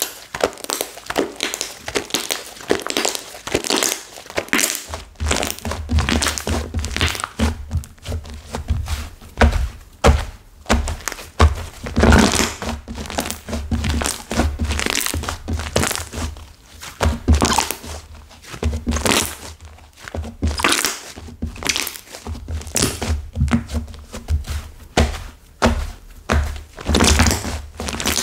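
Hands squeezing, pressing and pulling apart a floral slime whose clay has hardened stiff, giving a continuous run of crackling, crunching strokes with dull thunks as it is pressed down.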